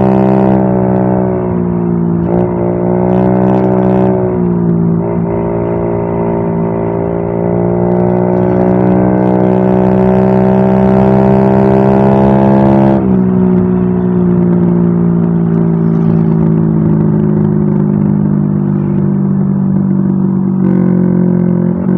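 Yamaha Mio M3 scooter's single-cylinder engine running through an aftermarket WRX exhaust, held at raised revs with a few brief throttle dips in the first seconds. About halfway through the revs drop to a lower steady note, then pick up slightly near the end.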